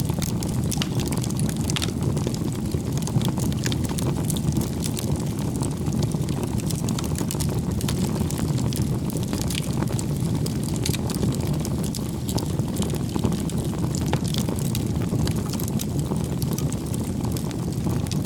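Wood bonfire burning: a steady low rush of flame with frequent sharp crackles and pops of burning wood.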